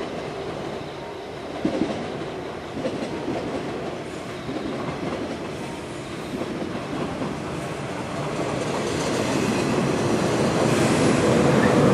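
A 485-series electric express train pulling into a station, its wheels running on the rails. The sound grows steadily louder as the cars come alongside near the end.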